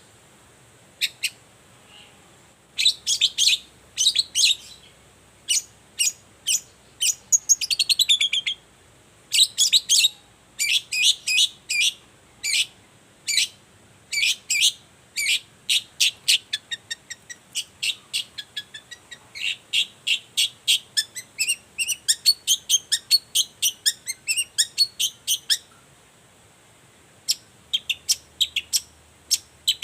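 Long-tailed shrike (cendet) singing: rapid bursts of short, sharp, high notes, with a quicker chattering run of notes in the second half and a brief pause near the end.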